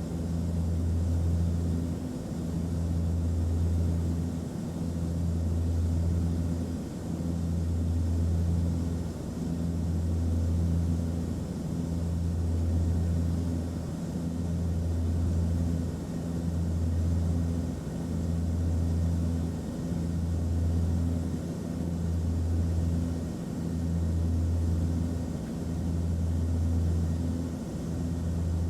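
Airplane cabin noise in flight: a steady low drone with a faint hiss above it, swelling and dipping evenly about every two seconds.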